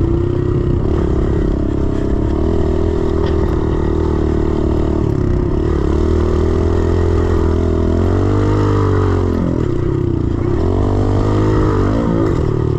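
A 110cc pit bike's single-cylinder four-stroke engine running under throttle across a rough track, its pitch rising and falling as the rider rolls on and off the gas, most noticeably about two-thirds of the way in and again near the end.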